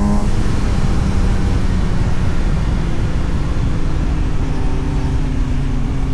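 Suzuki GSX-S750 inline-four engine heard onboard with heavy wind and road rumble: its revving note drops away just after the start as the throttle closes, then it runs low and muffled under the rumble, its note climbing a little again near the end.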